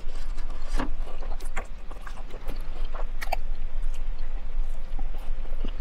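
Close chewing of a teriyaki chicken lettuce wrap: wet mouth smacks and short clicks at irregular intervals, over a steady low hum.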